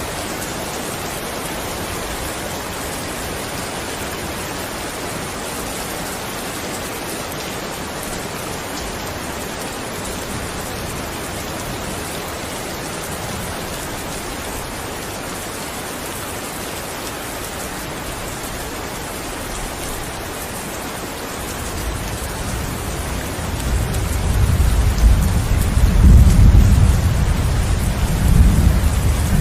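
Steady heavy rain, with a deep rumble of thunder building in the last few seconds and peaking a few seconds before the end.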